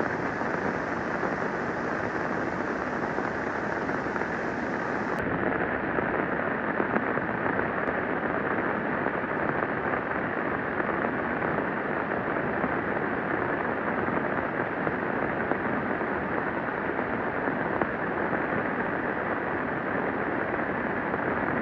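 Steady heavy rain, a dense even hiss that runs without a break. It turns slightly duller about five seconds in.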